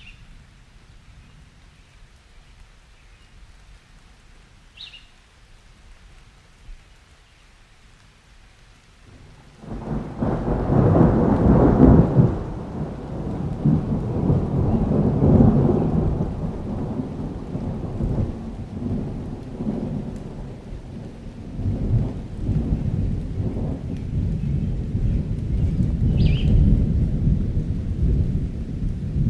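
Light rain hissing softly, then about ten seconds in a long roll of thunder breaks in suddenly and rumbles on in swells with rain under it. A short high chirp sounds twice, once early and once near the end.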